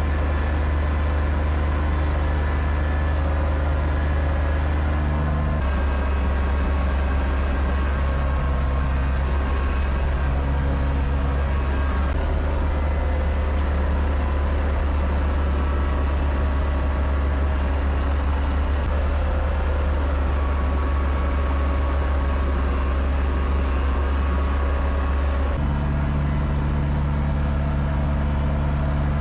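Kubota tractor's diesel engine running steadily, its pitch stepping to a new steady level a few times.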